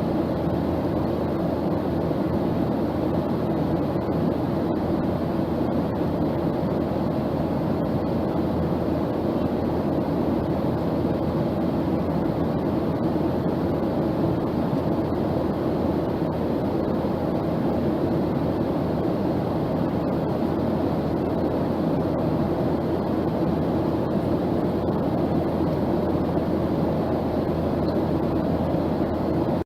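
Steady low roar of an airplane, even and unchanging, with no rise or fall of a passing aircraft.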